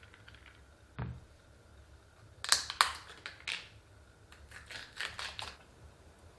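Food packaging and plastic storage containers being handled while a fridge is stocked: a soft thump about a second in, then two bursts of sharp clicks and crackles.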